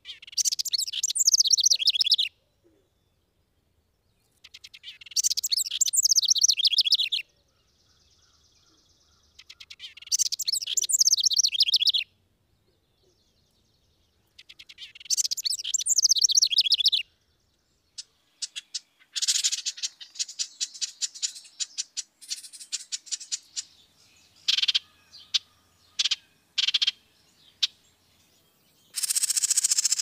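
Dark-eyed junco singing: four high trilled songs of about two seconds each, a few seconds apart, then a run of quick chips and short buzzy notes.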